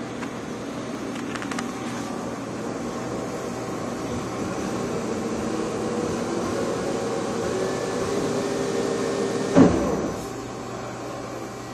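CNC machine tool running with a steady mechanical hum and whine that grows slowly louder, then a single loud knock about nine and a half seconds in, after which it quietens.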